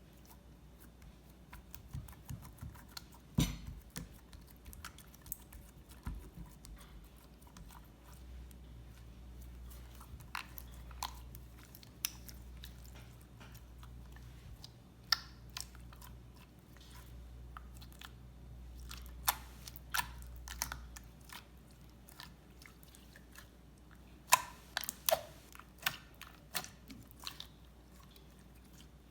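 Slime being handled and squished, giving irregular sticky clicks and pops, with a denser run of louder pops near the end.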